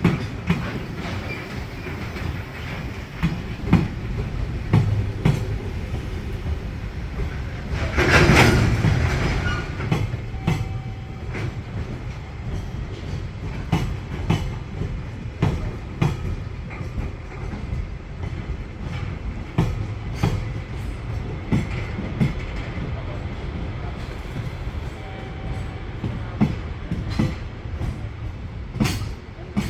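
Freight train rolling slowly through the station, its wheels clacking over rail joints at uneven intervals over a low rumble. A loud burst of noise comes about eight seconds in.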